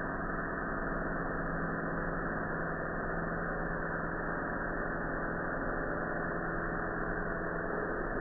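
Electric rotary hand tool (micro motor) running steadily at constant speed, a continuous whirring hum.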